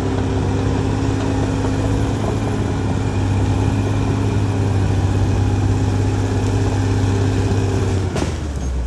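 Caterpillar D6R XL bulldozer's diesel engine running at a steady pitch. Near the end there is a sudden click, and the engine note drops to a lower hum.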